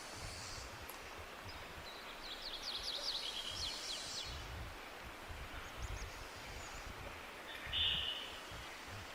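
Forest ambience of a steady hiss with low rumbles, with birds calling: a rapid trill of high notes a few seconds in and a short, louder call near the end.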